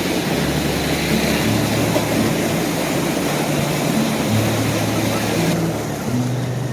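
Canal water rushing steadily through sluice gates, a loud even roar. Low steady tones hum underneath, and the higher hiss drops away suddenly near the end.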